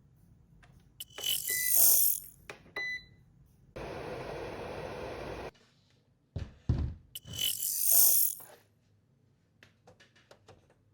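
Scattered clicks and knocks, with two loud hissing bursts about a second long, each holding a short beep-like tone. Between them a steady whirring noise runs for about a second and a half, starting and stopping abruptly.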